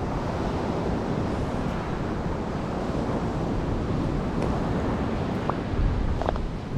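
Wind buffeting the microphone, a steady low rumbling noise, with a couple of faint short clicks near the end.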